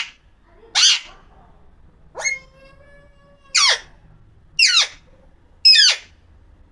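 Parrot giving a series of loud, short screeching calls about a second apart, each sweeping sharply down in pitch; one call around two seconds in holds a steady note for about a second.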